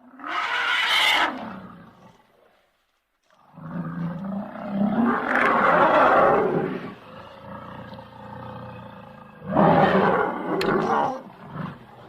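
Elephant calling three times: a short roaring call at the start, a long drawn-out call in the middle, and another short call near the end.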